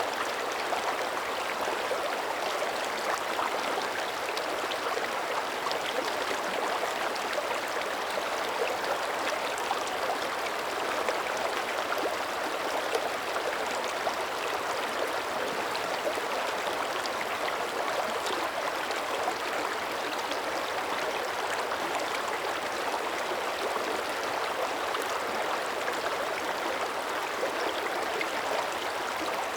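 Small mountain creek running steadily over stones, a constant rushing and burbling of shallow water flowing under early-winter surface ice.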